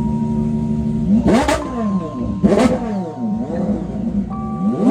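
A car engine revving up and down about four times in quick succession, each rev a rise and fall in pitch, over a steady held tone.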